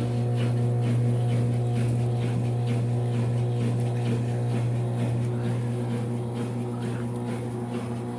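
Brastemp 5 kg washing machine running with a steady low electric hum, easing off slightly toward the end.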